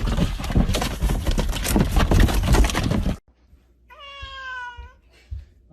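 A loud, dense noisy stretch cuts off abruptly about three seconds in. About a second later a domestic cat gives one meow, lasting about a second and falling slightly in pitch.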